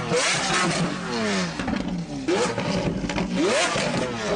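A high-performance car engine revving repeatedly, its pitch climbing quickly and then falling back, five or six times.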